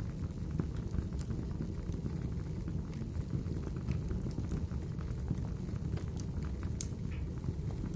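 Wood fire crackling, with a few sharper pops, mixed with steady rainfall: a dense patter of drops.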